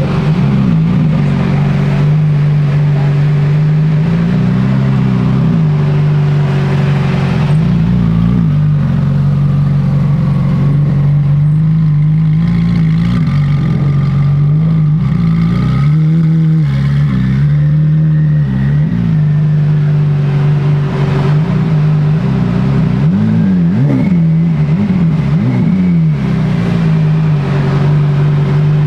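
Car engine running close by, holding a steady idle with a few short swells in pitch, like light revs, around 5 s, 17 s and 24 s in.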